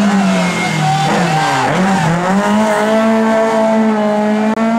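Rally car engine running hard: the revs drop about a second and a half in, then climb again and hold steady.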